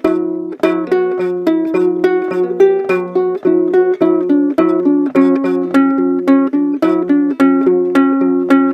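Ukulele strummed in a steady rhythm, playing an instrumental passage of chords.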